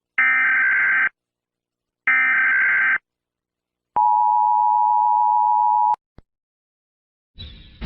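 Electronic telephone-style tones. Two one-second beeps come about two seconds apart, then a steady two-second tone around 1 kHz cuts off abruptly, followed by a single click. Music starts near the end.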